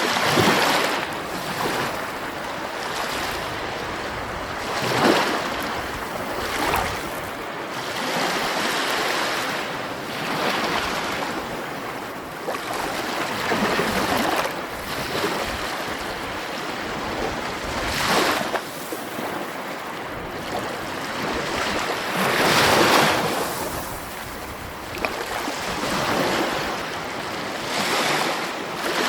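Sea waves washing in as a continuous rush of surf, swelling into a louder breaking wave every few seconds.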